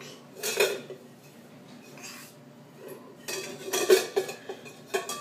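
Metal pots and pans being banged and clattered together in irregular bursts, ringing after each strike: one clank about half a second in, a lighter one around two seconds, then a quick run of clanks from about three seconds on.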